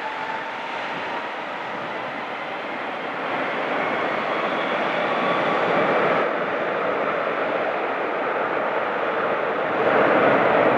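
Jet engines of a twin-engine Airbus A330-300 at takeoff power, a steady noise with a faint rising whine, growing louder about three seconds in and again near the end.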